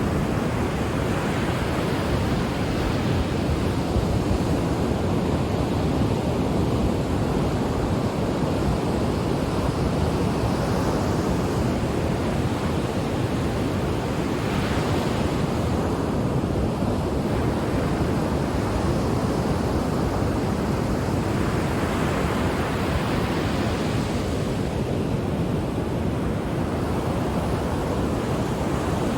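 Ocean waves breaking on a shore: a steady wash of surf, with a brighter hiss swelling up every several seconds as each wave breaks.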